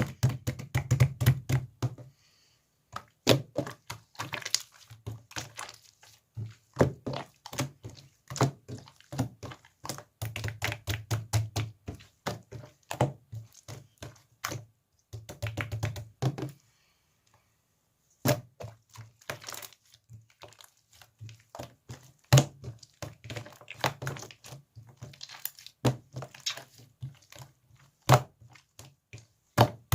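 Slime being squished, pressed and stretched by hand, giving rapid sticky pops and clicks in clusters with dull low thuds as it is pressed down. There is a short pause a little past the middle.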